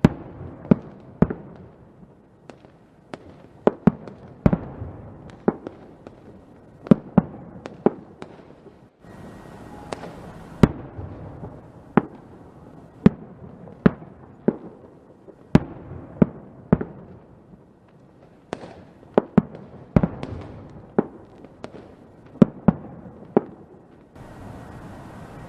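Fireworks going off in an irregular string of sharp bangs, roughly one or two a second, each trailing off in a low rumble.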